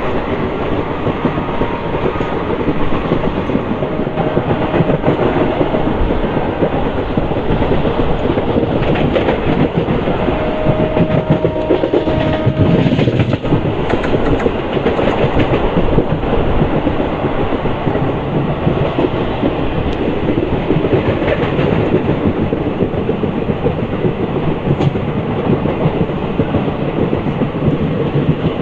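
Passenger train running on broad-gauge track, its wheels rumbling and clattering on the rails at a steady level.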